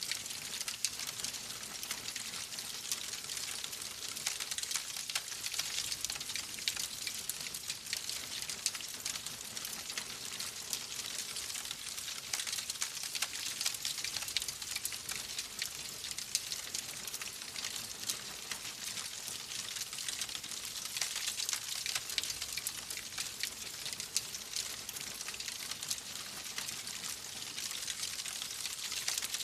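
Wood fire crackling steadily: a dense hiss of many small crackles and pops.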